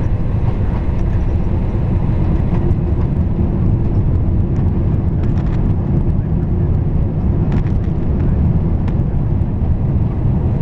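Cabin noise inside a Boeing 767-300ER on the ground just after landing: a loud, steady low rumble of the engines and the rolling airframe, with faint scattered rattles of cabin fittings.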